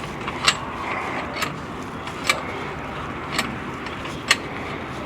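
Sharp metallic clicks about once a second from a hand tool working a steering part into place.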